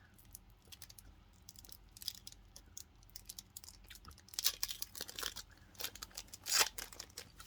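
Foil wrapper of a Pokémon booster pack crinkling and being torn open: scattered crackles, with two louder rips in the second half.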